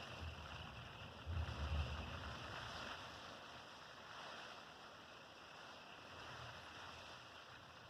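Windy rainstorm heard from inside a travel trailer: a faint, steady hiss of rain and wind, with a low rumble a little over a second in as a gust buffets the trailer.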